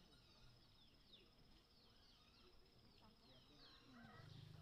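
Near silence with small birds chirping faintly: short falling chirps at irregular intervals of about half a second to a second, over a thin steady high trill.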